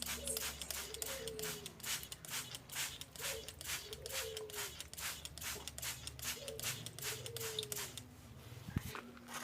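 Plain prinia calling with a rapid, even run of sharp clicks, about four to five a second, that stops near the end. Faint low gliding tones recur underneath about once a second.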